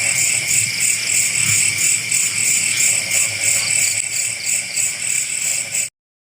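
A dense chorus of night insects: steady high trilling with a pulsing chirp several times a second. It cuts off abruptly near the end.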